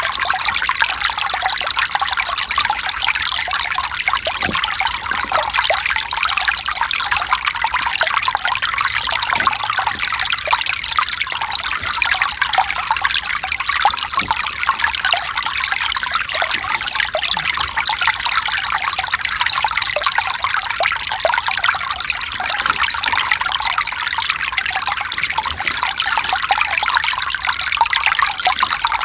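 Mountain stream, water running and trickling steadily over rocks.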